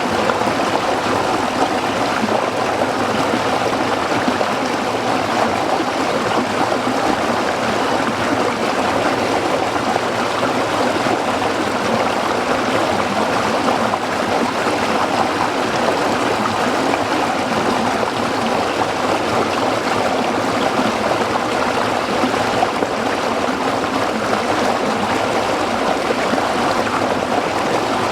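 Small stream of water flowing and splashing over rocks, a steady even babble.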